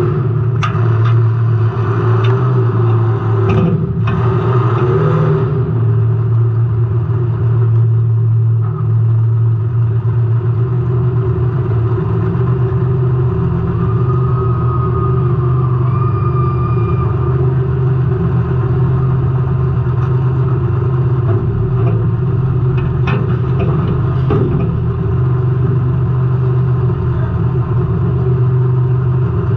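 Race car engine running hard at a steady pitch, heard from inside the car, with the chassis rattling and a few sharp knocks in the first few seconds and again past the middle.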